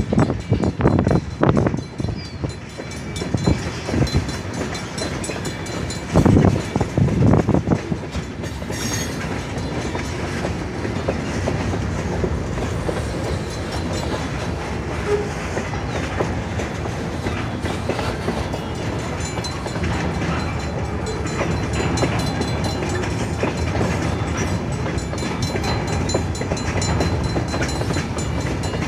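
Freight cars rolling through a grade crossing: steel wheels clattering over the rails, with several loud irregular bangs and clanks in the first eight seconds or so, then a steady rumble and clatter.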